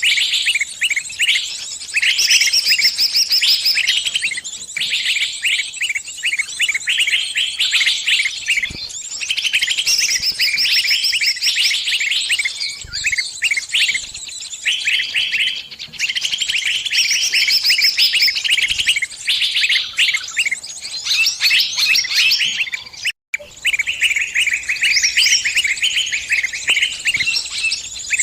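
A bird giving distress calls, the calls of a bird caught or pinched and calling its companions for help: rapid, dense runs of short, high chirps with barely a pause, broken once by a brief gap about 23 seconds in.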